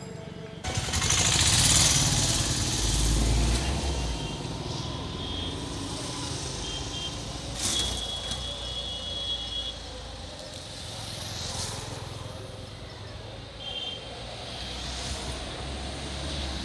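Road traffic passing over a bridge: vehicles driving by with engine rumble and tyre noise, the loudest passing just under a second in. A few short high steady tones sound around the middle and again briefly later.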